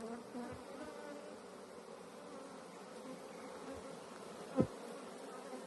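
Honeybees buzzing around an opened hive in a steady hum, with one brief thump about four and a half seconds in.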